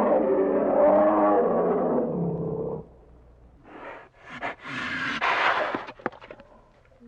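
A large animal roaring: one loud, pitched roar lasting under three seconds, then a short breathy burst and a longer harsh, rasping snarl.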